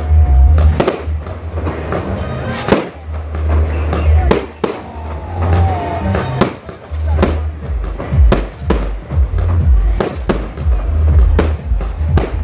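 Fireworks exploding in a rapid string of sharp bangs, roughly one or two a second, over loud music with a heavy bass beat.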